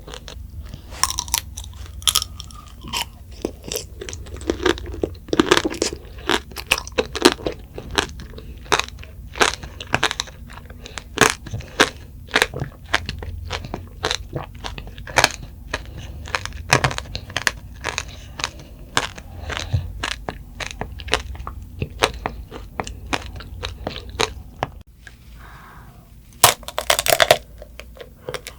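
Close-up crunching and chewing of strawberry tanghulu, the hard candied sugar shell cracking in a dense run of sharp crunches. Near the end, after a brief lull, a loud bite cracks through the candy shell.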